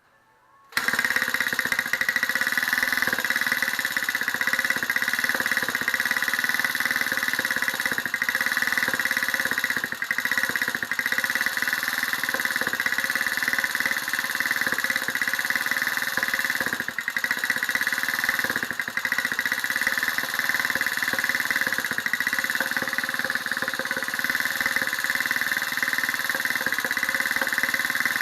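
Bored-up Honda Jazz's small single-cylinder four-stroke engine running steadily with a fast, dense rattle. It comes in abruptly just under a second in.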